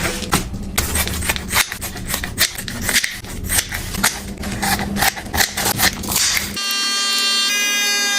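Quick clicks, taps and rustles of containers and packaging being handled. Near the end this switches abruptly to a sustained electronic-sounding tone with many overtones.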